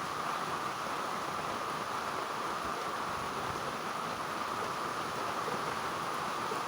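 Heavy rain falling on green leaves: a steady, even hiss with no breaks.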